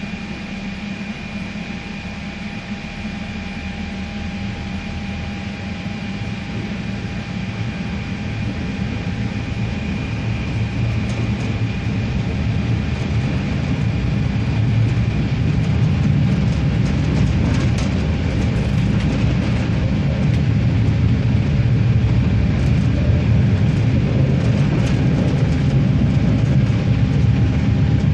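Regiosprinter diesel railcar running on the line, its engine and running noise growing steadily louder, as when the train gathers speed. A steady whine is held over the low rumble.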